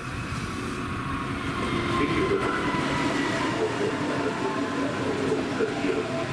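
A train moving through the station: a steady rumble with a whine of several high tones over it, growing a little louder about two seconds in.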